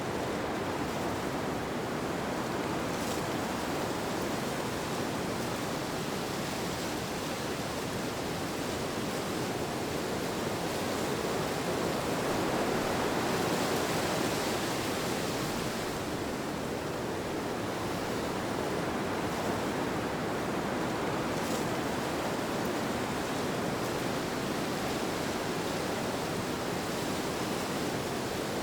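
Steady rushing wind, an even soft noise with no separate events, swelling slightly about halfway through and then settling back.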